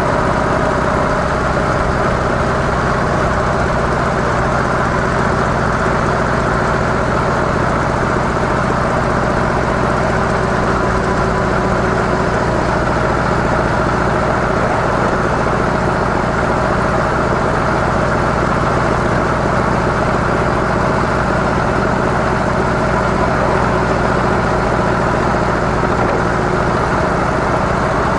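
Harley-Davidson CVO Softail Deluxe's Twin Cam 110 V-twin running steadily through its stock mufflers, an even low drone with no change in pace.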